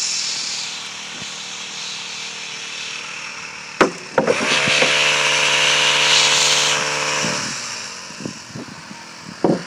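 Small 33cc four-stroke pole saw engine running and cutting wood: it eases down from a high rev at the start, runs at a lower speed, then revs up again for about three seconds in the middle before dropping back near the end. A sharp click comes just before the second rev-up.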